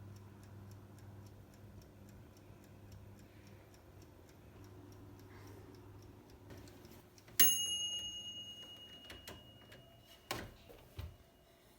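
Fast, even ticking over a low steady hum. About halfway through, something hard is struck with a ringing clink that fades over a couple of seconds, and a few short knocks follow near the end.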